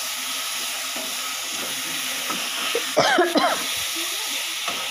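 Potato and eggplant curry sizzling as it is fried down in a stainless-steel kadai, stirred with a metal spatula scraping against the pan. About three seconds in there is a brief cluster of pitched squeaks and knocks.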